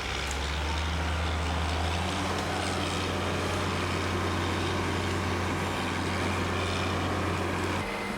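A construction crane's diesel engine runs steadily under load, hauling a full bucket of concrete. Its note shifts about two seconds in and drops back near the end.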